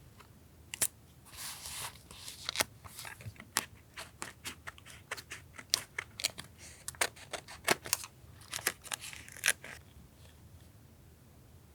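Scissors snipping paper in a run of quick, sharp snips, with spells of paper rustling between the cuts.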